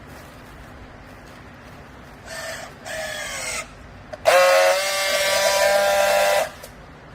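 Used-clothing baler's hydraulic machinery whining: two short whines that drop slightly in pitch, then a louder steady high whine that lasts about two seconds and stops abruptly.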